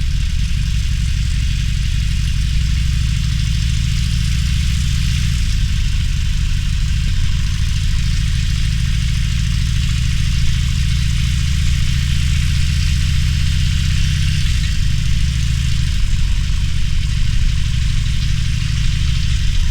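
Harley-Davidson Roadster's air-cooled V-twin engine running at low, fairly even revs, its pitch shifting about five seconds in and again near three-quarters of the way through.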